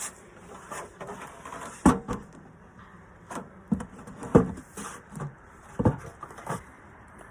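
Telescoping outer cover being set back on a beehive: a series of irregular knocks and thumps as the lid is fitted and seated, the loudest about two seconds in and just past four seconds.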